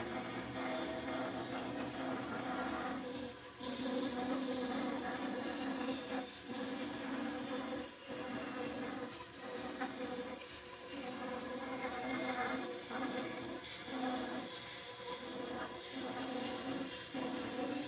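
Electric power tool motor buzzing with a steady low hum, its sound briefly dipping or cutting out every second or two.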